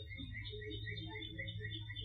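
Faint birdsong: a bird repeating a short high note about four times a second, over a steady low hum.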